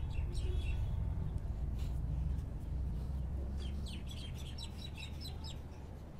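Small birds chirping in quick runs of short high calls, busiest about four seconds in, over a steady low rumble.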